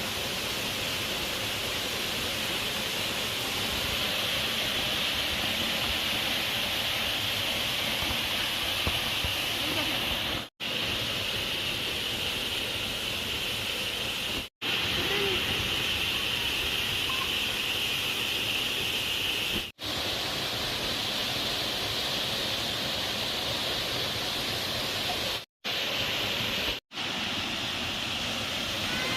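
Waterfall rushing steadily, an even hiss of falling water, broken by brief silent cuts five times.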